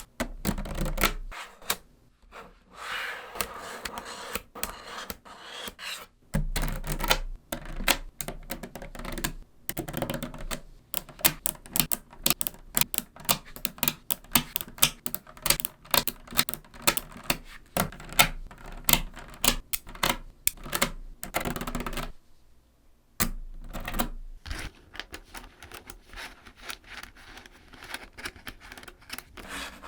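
Small neodymium magnetic balls clicking and snapping against one another in rapid, irregular clicks as they are pieced together by hand, with a brief pause a little over two-thirds of the way through.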